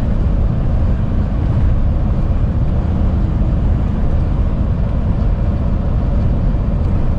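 Steady low rumble of a truck's engine and road noise heard inside the cab while driving at highway speed.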